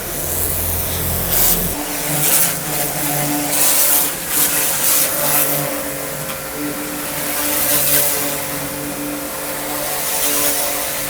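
Electric high-pressure washer running: a steady motor hum under the hiss of the water jet, which comes and goes in surges.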